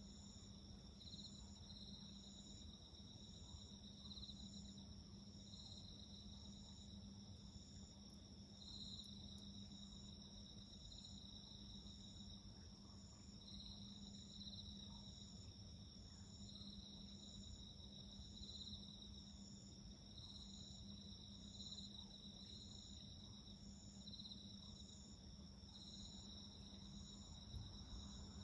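Faint chorus of night insects, crickets among them: one gives regular, evenly spaced chirps, others trill steadily at a higher pitch. A faint steady low hum lies underneath.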